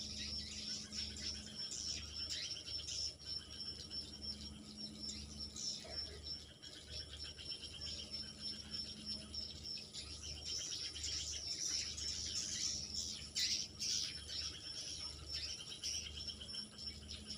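Swiftlets chirping and twittering in many short, high calls over a steady high trill, with a low throb pulsing about once a second underneath.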